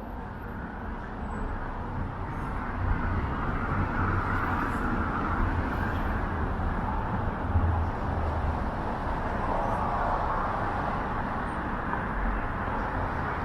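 City street traffic: cars passing with a steady wash of engine and tyre noise, swelling as vehicles go by about four seconds in and again near ten seconds.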